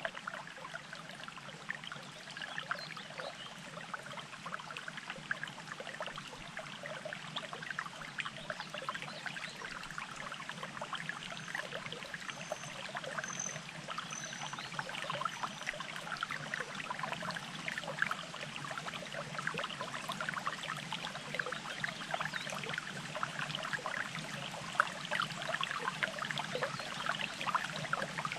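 Water burbling and trickling steadily, like a small mountain stream. About halfway through a bird gives a short run of about six high, thin notes.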